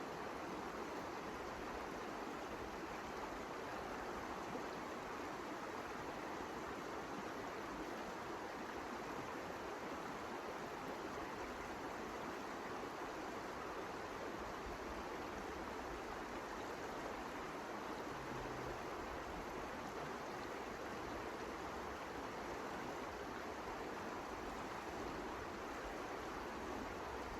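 Steady blizzard wind: an even rushing hiss that holds unchanged, with no gusts or breaks.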